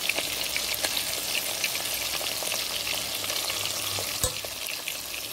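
Breaded chicken wing pieces deep-frying in hot oil: steady sizzling with many small crackling pops, and a single knock a little past four seconds in.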